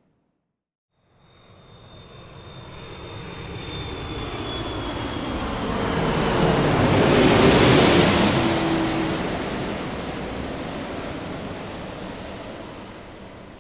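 Airplane passing overhead: its engine noise swells out of silence, peaks about seven seconds in and fades away, with a high whine that slides down in pitch as it goes by.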